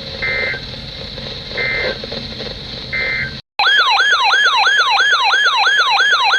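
Three short bursts of Emergency Alert System data tone over weather-radio hiss: the end-of-message code closing a warning. After a brief cut, a loud electronic alert tone starts, repeatedly sweeping downward about two and a half times a second like a siren, announcing the next warning.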